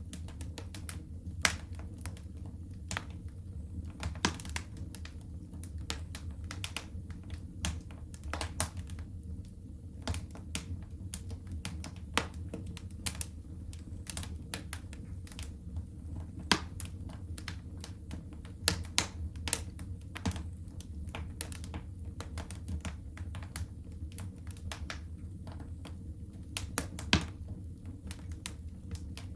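Wood fire crackling in a fireplace: irregular sharp pops and snaps at varying loudness, a few much louder than the rest, over a steady low rumble.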